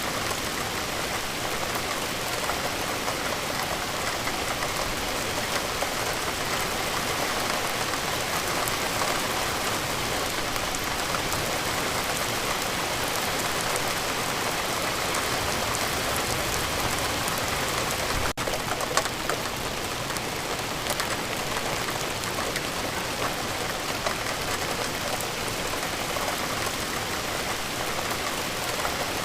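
Steady rain falling, an even dense hiss with many small drop ticks on surfaces. There is a momentary break in the sound about two-thirds of the way through.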